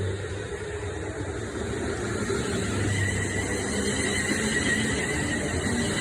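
Class 350 Desiro electric multiple unit pulling away after a station stop, running with a low hum. A high steady whine from its traction motors comes in about halfway through, and the sound grows slightly louder.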